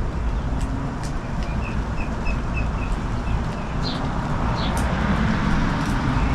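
Steady rainstorm noise with a low rumble. Over it a small bird chirps a quick, even run of about six short notes in the middle, then two higher chirps.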